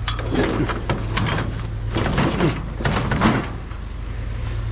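Scrap items being shoved and rearranged in a crowded load: scraping and clattering that stops about three and a half seconds in, over a steady low hum.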